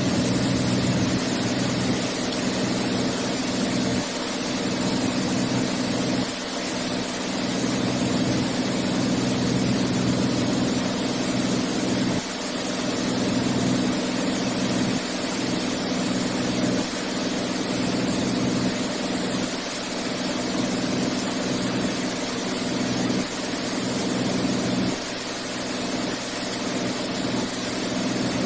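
Cockpit sound of a Beechcraft A36 Bonanza in flight on approach: the single piston engine and propeller drone steadily under a constant rush of airflow.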